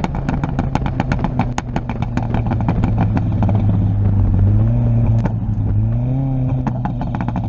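Ford Fiesta ST's turbocharged four-cylinder engine, with a big turbo kit, external wastegate and MBRP cat-back exhaust, running with a rapid crackle of exhaust pops over a low exhaust note for the first few seconds, then two short throttle blips about four and a half and six seconds in.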